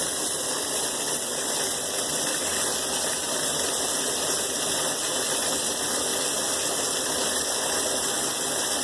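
Shower water turned on and running in a steady rush. The shower valve is leaking, so water pours down inside the wall.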